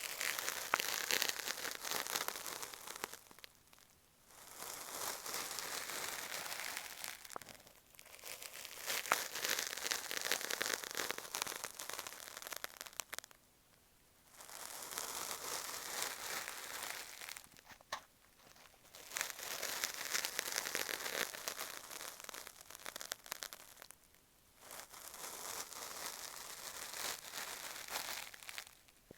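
Cotton swab rubbing and scraping over an earphone microphone that stands in for the ear, giving close, crackly rustling strokes. The strokes come in spells of a few seconds with brief pauses between them.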